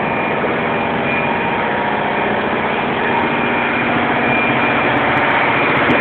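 Steady drone of running machinery in a ship's engine room, a constant hum with several fixed tones, growing a little louder toward the end.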